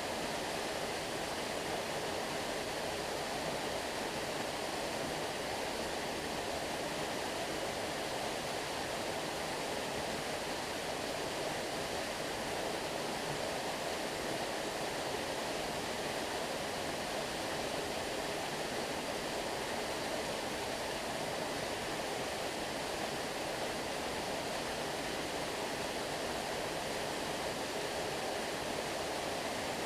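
Stream water flowing, a steady, even rushing that does not change.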